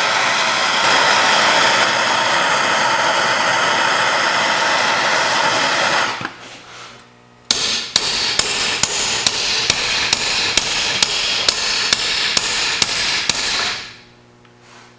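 MIG welder arc buzzing and crackling in two runs of about six seconds each, with a short break between. The second run carries a regular sharp tick about twice a second.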